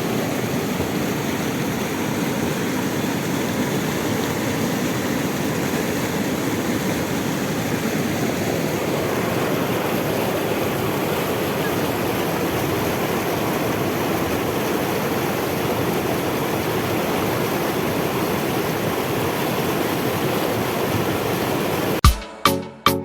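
Waterfall: a steady, even rush of falling water. About a second before the end it cuts off abruptly and sharp drum hits of music begin.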